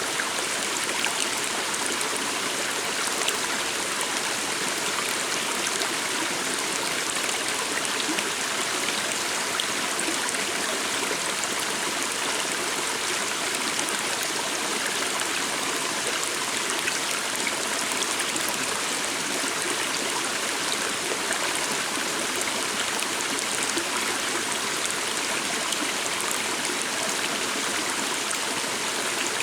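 A small stream of water running and trickling steadily.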